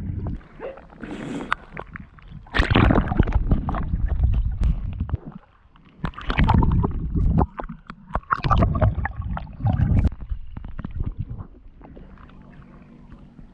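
Water splashing and sloshing in three loud bursts, with gurgling close to the microphone, as a person swims, followed by a quieter stretch.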